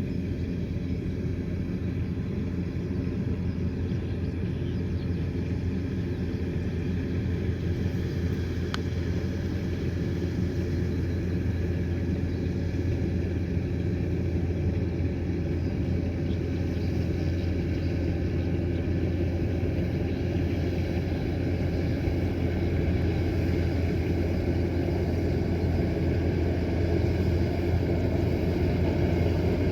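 Kubota combine harvester's diesel engine running steadily as it works, a constant low rumble that grows a little louder toward the end.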